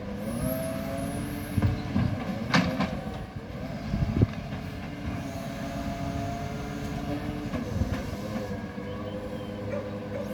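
Garbage truck running: a steady mechanical drone with held tones that shift in pitch, broken by several sharp clanks and knocks in the first half.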